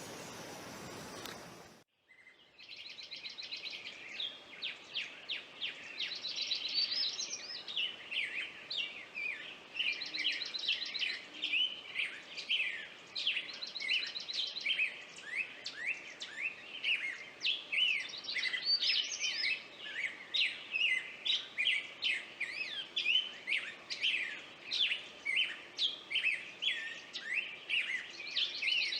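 A steady high insect-like hiss that cuts off abruptly about two seconds in. Then songbirds sing densely: rapid high chirps, quick sweeping notes and short buzzy trills, repeated without pause.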